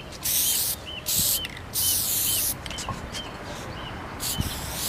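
Aerosol spray-paint can hissing in several short bursts as letters are sprayed onto a car's body, each burst stopping sharply.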